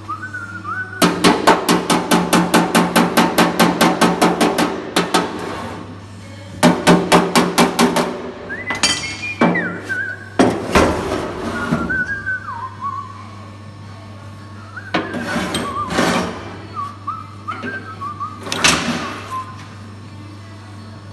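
Rapid runs of ringing metal strikes, several a second, with scattered single strikes later. Between the strikes a person whistles a wavering tune.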